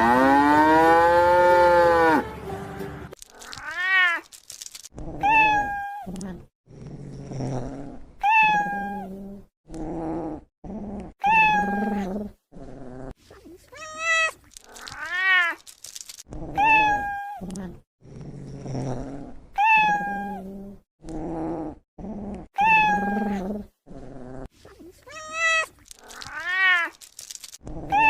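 A cow's long moo ends about two seconds in. Then a cat meows over and over, about a dozen meows, each rising and falling in pitch, with quieter low sounds between them.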